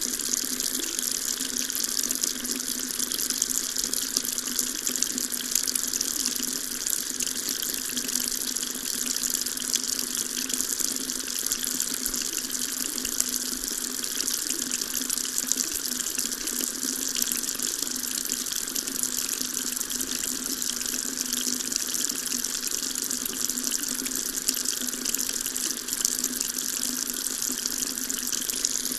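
Water tap running steadily, its stream splashing into a sink with an even hiss.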